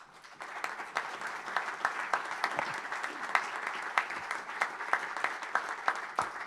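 An audience applauding, a dense patter of many hands clapping that builds over the first half-second.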